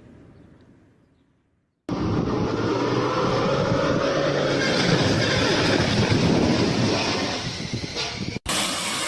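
Vehicle running: a steady, loud rumble of engine and road noise that starts abruptly about two seconds in, after a brief silence, and is cut off suddenly near the end.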